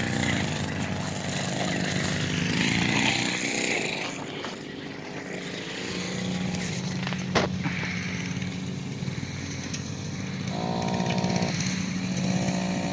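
Small minibike engine running and revving, its pitch rising and falling with the throttle, with one brief sharp click about seven seconds in.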